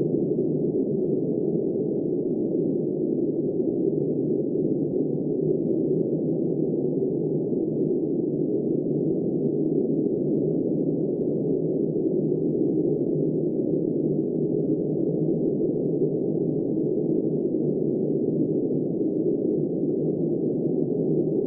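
Steady, muffled wind noise of a snowstorm: an even low rush with no highs and no gusts.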